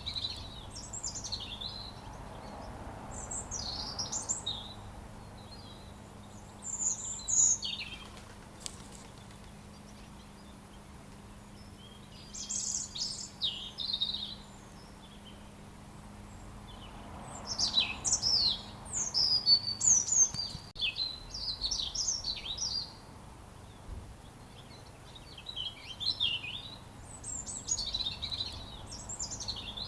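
Robin singing: bouts of high, quick twittering song phrases with pauses of a few seconds between them, the longest run of phrases near the middle.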